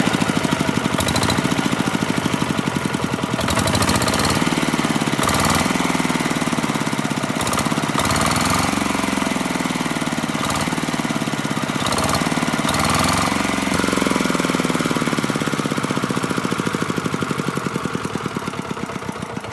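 Rebuilt Z1100 engine running on its first startup after restoration, with a fast, even firing beat. It is revved up and down several times through the middle before settling back to a steady run.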